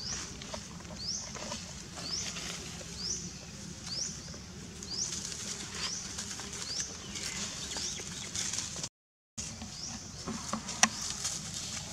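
A bird calling over and over, a short high rising chirp about once a second. The sound drops out for a moment about nine seconds in, and there is one sharp click near the end.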